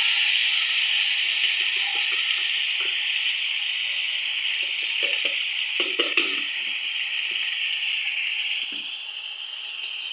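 Chopped tomatoes sizzling in hot oil in a pan, the sizzle slowly dying down. A spatula stirring them scrapes and knocks a few times around the middle.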